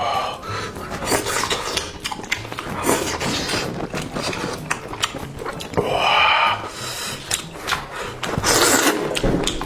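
Close-up eating sounds of a person chewing and slurping food, with many small wet mouth clicks and two longer rushing slurps about six and eight and a half seconds in.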